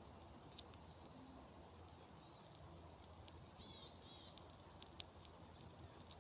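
Quiet forest ambience in which a small bird gives a short run of chirps about halfway through. A couple of faint sharp clicks fall early and late.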